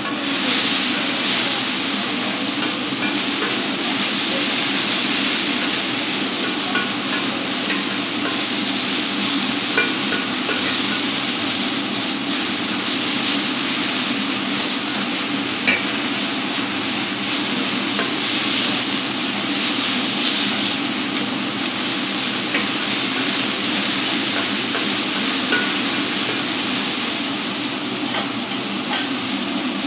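Oyster blade steak frying: a steady sizzle with scattered small pops and clicks.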